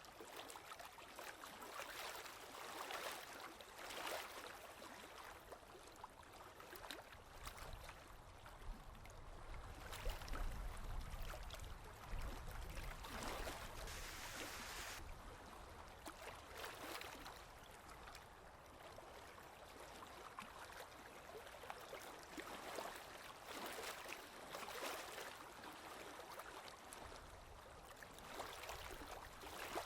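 Water lapping and splashing against a boat's hull in small, irregular surges every second or two. A low rumble joins in for several seconds about a third of the way in.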